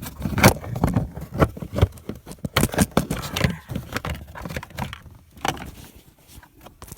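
Plastic steering-column trim cover being pushed, wiggled and snapped back into place, giving a run of irregular clicks, knocks and scrapes that thin out and grow quieter near the end.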